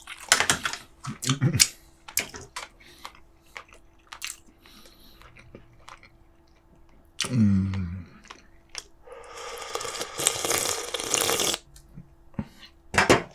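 A man eating braised pork back ribs with kimchi: chewing and small sharp clicks, a short hum about seven seconds in, and a noisy rushing sound lasting about two seconds a little later.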